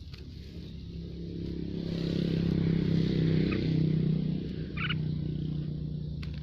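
A low, steady mechanical hum that swells to its loudest a few seconds in and then eases off, with a couple of short bird chirps over it near the middle.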